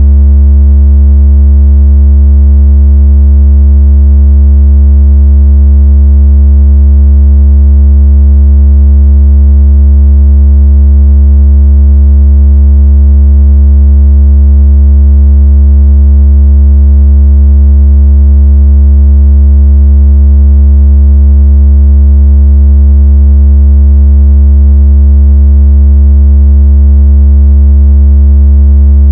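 Loud, steady, deep electronic bass tone with faint overtones: a synthesized vibration tone used to shake water out of a phone speaker.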